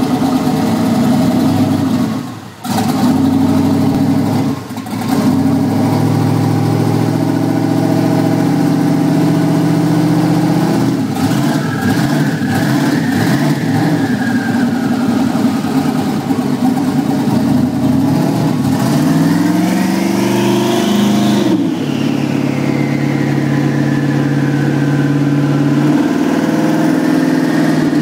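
Twin-turbo 5.3-litre V8 running on a chassis dyno, its sound dropping away briefly twice in the first five seconds. Later it revs up with a high whine that climbs steeply, cuts off suddenly about three-quarters of the way through, and then falls slowly as the engine winds down.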